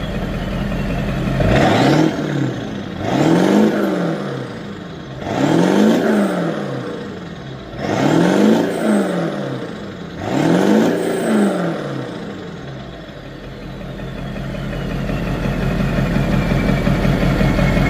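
Ford F-250's 7.3-litre V8 at idle, revved quickly four or five times in a row and settling back to idle. A high whine slowly falls in pitch after the last rev.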